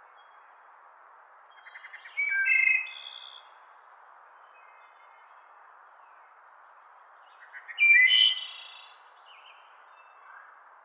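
A songbird singing two short phrases about six seconds apart, each opening with a quick stutter of notes and ending in bright, high notes, over a steady hiss. A few faint bird notes sound between the phrases.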